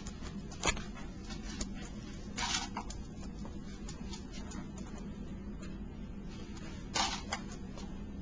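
A Boston terrier playing with a cat toy: scattered light clicks and taps, a sharp click about a second in, and two short scratchy rustles, one in the middle and one near the end, over a steady low hum.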